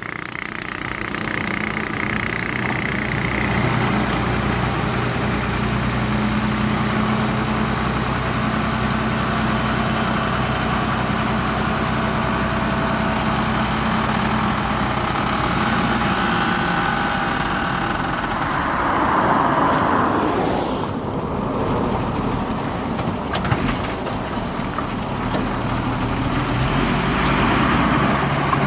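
Heavy diesel engine of earthmoving machinery running at a steady note. A little over two-thirds through, the sound swells and then dips, before the steady running resumes.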